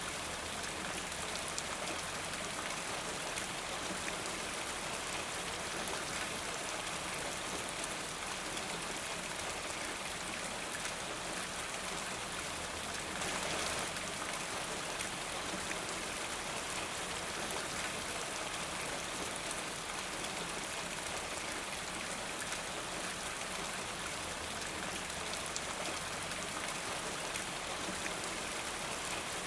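Steady rain falling, an even hiss of drops that swells briefly about halfway through.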